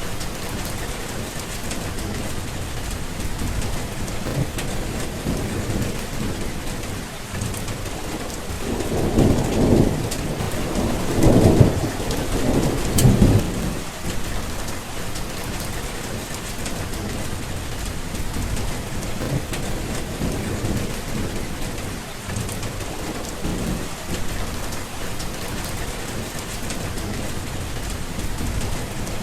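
Steady rain falling, with a roll of thunder rumbling from about a third of the way in and dying away about halfway through.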